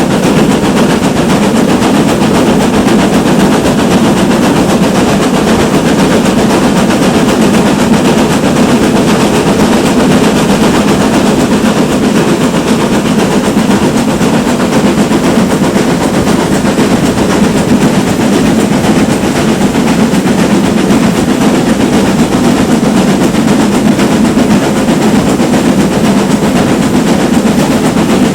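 Manor-class steam locomotive working hard, its exhaust beats coming in a rapid, unbroken stream over the running noise of the train, loud and steady throughout.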